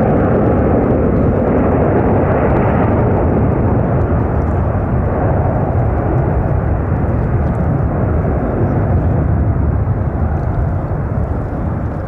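A Boeing 747-400F freighter's four jet engines make a loud, steady roar as it lands, fading slightly near the end.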